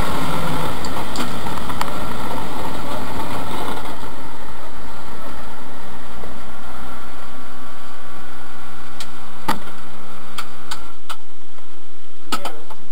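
BMW race car's engine running, heard from inside the stripped cabin: busy at first, then settling to a steady idle. It is switched off about eleven seconds in, followed by a few sharp clicks and knocks.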